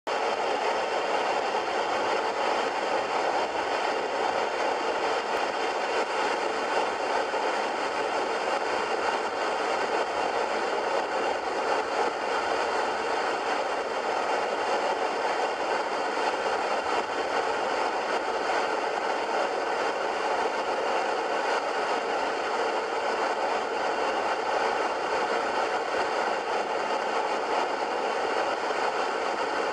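Cessna 177B Cardinal's four-cylinder Lycoming engine and propeller running steadily, an even drone that holds the same pitch and loudness throughout.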